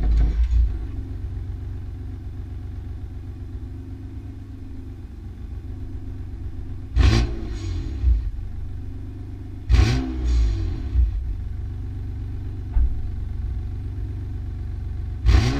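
BMW M4's twin-turbo inline-six through a valved Active Autowerke exhaust, idling after a cold start as the start-up flare dies away in the first second. The throttle is blipped three times, about seven, ten and fifteen seconds in, each a short rev that rises and falls back to idle.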